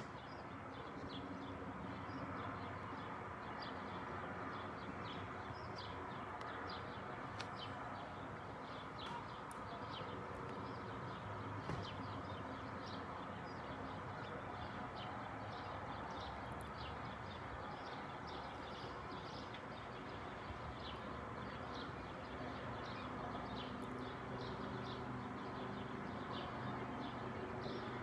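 Small birds chirping, many short high chirps throughout, over a steady distant rumble.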